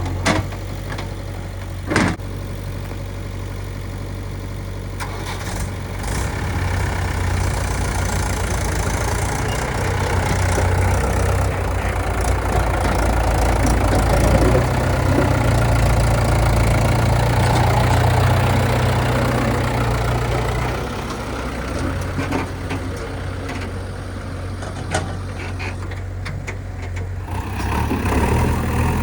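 Heavy diesel engine running steadily, louder and working harder through the middle stretch. A sharp knock comes about two seconds in, with a few lighter knocks later.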